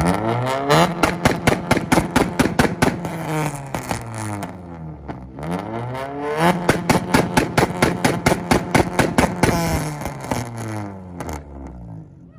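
Tuned car engine revved hard and held on a two-step launch limiter, popping and banging several times a second. It does this twice, each time revving up, holding, then falling away, the second burst ending shortly before the end.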